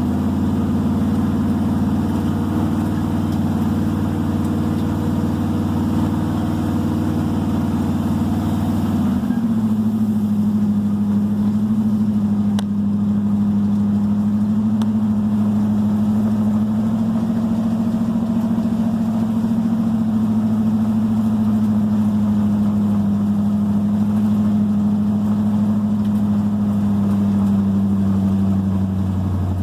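1978 Jeep CJ7 engine running steadily under way, its note shifting to a different pitch about nine seconds in.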